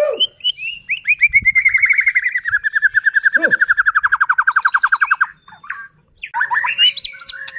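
White-rumped shama (murai batu) singing. A few quick rising notes lead into a long, fast rattling trill of about ten notes a second that lasts nearly four seconds and stops abruptly. After a short pause come quick, varied notes near the end.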